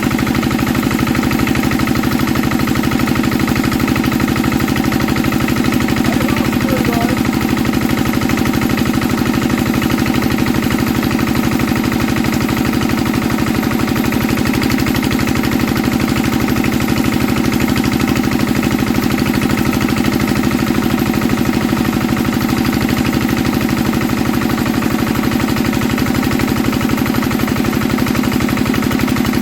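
Old Enfield stationary diesel engine running steadily after a cold start, with a fast, even beat of firing strokes.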